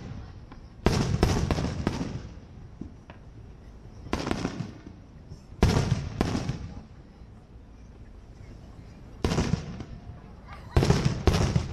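Aerial fireworks shells bursting overhead. A quick run of sharp bangs comes about a second in, then single booms a second or more apart, and another rapid run near the end. Each bang trails off in a rumbling echo.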